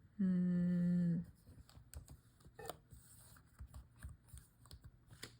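A woman's held, flat-pitched "hmm" lasting about a second. It is followed by quiet, irregular taps on a computer keyboard.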